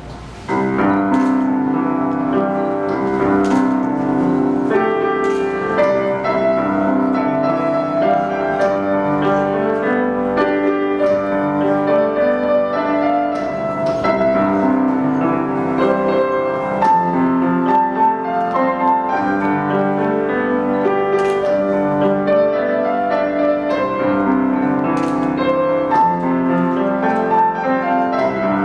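Solo piano playing a flowing melody over chords, starting about half a second in.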